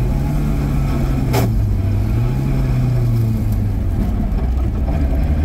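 Opel Manta rally car's engine heard from inside the cabin while driving at speed. Its note drops and climbs again twice as the driver comes off and back onto the throttle. There is a single sharp click about a second and a half in.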